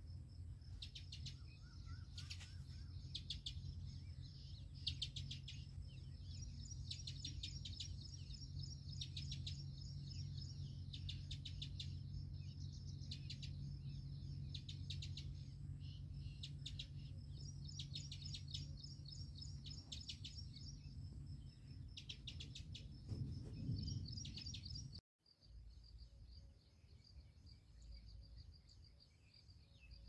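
Small birds chirping in quick, repeated trains of high notes over a steady low hum. Near the end the sound cuts out for a moment, and afterwards only a faint, thin, steady high tone remains.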